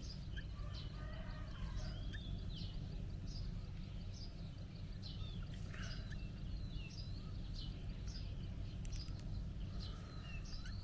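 Birds chirping and calling on and off, short rising and falling chirps over a steady low background rumble.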